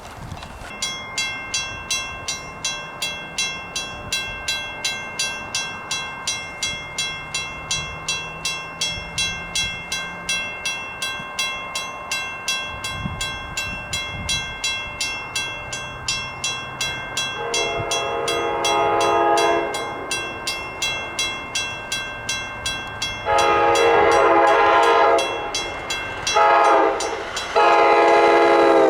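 Grade-crossing bell ringing steadily at about two strokes a second. Then an approaching train's air horn sounds the crossing signal, long, long, short, long.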